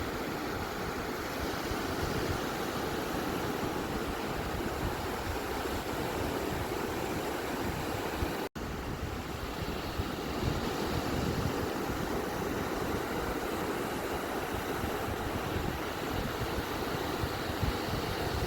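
Ocean surf washing onto a beach: a steady, even wash of noise with a rumbling low end. It cuts out for an instant about eight and a half seconds in.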